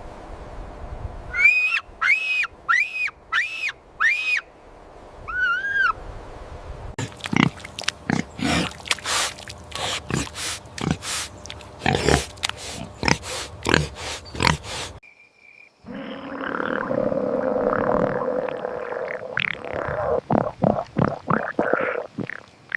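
A run of animal calls: five short pitched calls in quick succession with a lower one after, then many sharp grunts or clicks, then a noisier stretch of grunting after a short break.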